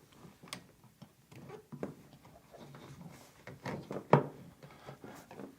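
Plastic drain adapter being handled and fitted into a Samsung front-load washer's drain filter opening: a few light knocks and scrapes, the sharpest about four seconds in.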